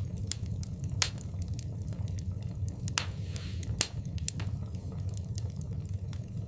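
Wood fire in a fireplace crackling, with irregular sharp pops, the loudest about a second in and just before four seconds, over a steady low rumble.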